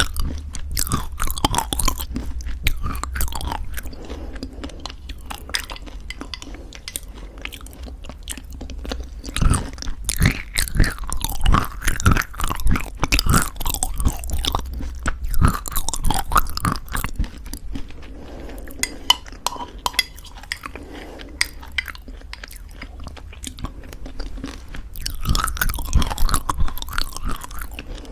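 Close-miked chewing of crunchy homemade granola in thick yogurt: irregular crisp crunches and wet mouth sounds, coming in clusters with quieter chewing between.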